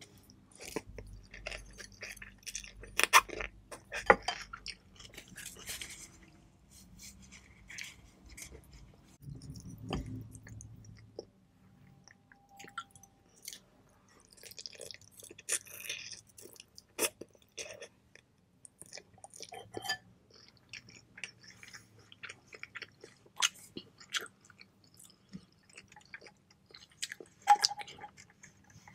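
A person eating pho noodles: wet chewing with many sharp mouth clicks, loudest in a few bursts a few seconds in.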